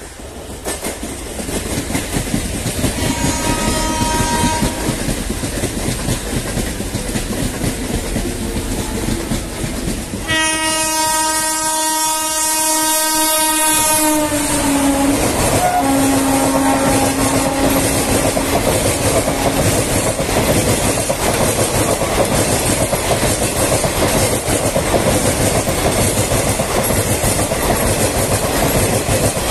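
An electric locomotive-hauled express train approaching at speed and passing close by. A faint short horn sounds about 3 s in, then a long loud horn from about 10 s drops in pitch as the locomotive goes past and fades out around 20 s. The coaches' rumble and clickety-clack of wheels over rail joints carry on through the rest.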